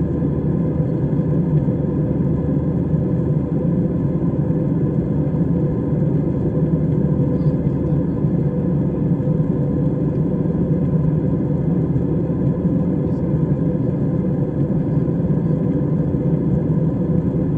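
Airliner cabin noise: a steady low drone of engines and airflow heard from inside the passenger cabin.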